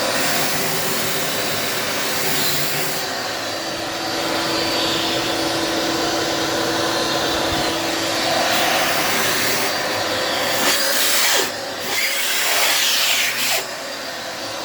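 Dirt Devil Multi-Surface vacuum cleaner running steadily with its brush attachment, the hiss shifting as it is moved over the floor. The sound dips briefly twice near the end.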